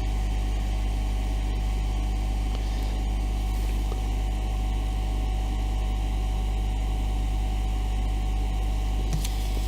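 Hot air gun running steadily: a constant motor-and-fan hum with an even airy hiss, blowing heat onto the tablet's glass to soften its adhesive.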